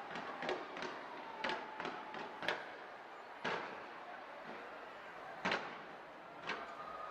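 Fireworks going off in irregular sharp bangs: several in quick succession in the first two and a half seconds, then sparser single bangs, over a steady background hiss.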